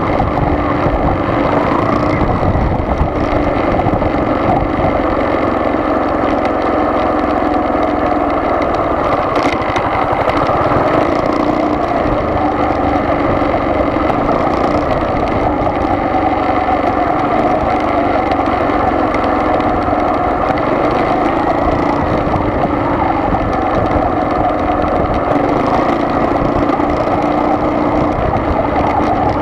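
Steady engine and road noise of a car on the move, an even drone with no change in pace.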